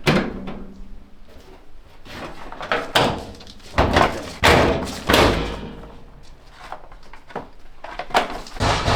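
A car bonnet slammed shut at the start, followed a few seconds later by a run of heavy thumps and knocks, and one more thump near the end.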